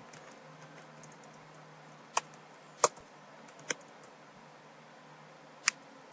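Sparse keystrokes on a computer keyboard: four sharp separate clicks spread over a few seconds, with a few fainter key ticks, over a faint steady hum.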